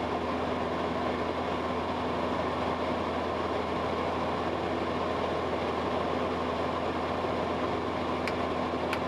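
Cessna 172S's four-cylinder Lycoming engine and propeller droning steadily at cruise power, set to about 2400–2500 RPM with the mixture leaned.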